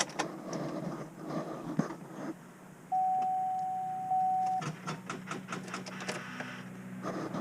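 Inside a 2006 GMC Yukon's cab, an electronic warning chime sounds as one steady tone for about a second and a half. It is followed by a run of rapid clicks as the key is tried. The engine does not crank into life, because the battery is run down in the cold.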